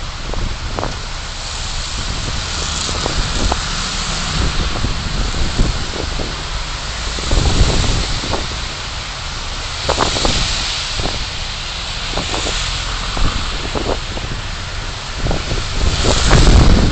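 Car driving through traffic, heard through a dashcam: a steady rumble of road and wind noise with frequent short knocks and rattles, swelling louder near the end.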